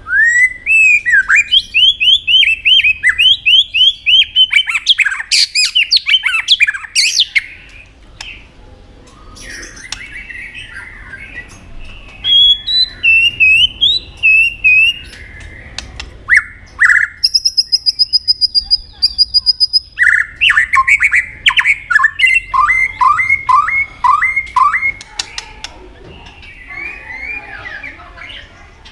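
White-rumped shama singing a varied song: fast runs of rising notes and chatter, broken by short pauses, with a run of high, clear whistles in the middle.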